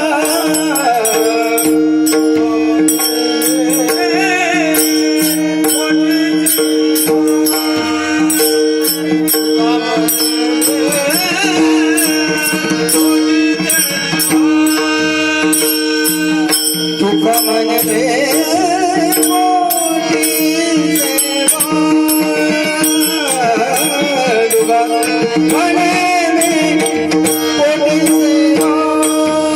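Marathi devotional music: a steady drone held under a wavering melodic line, with small hand cymbals keeping a quick, even rhythm.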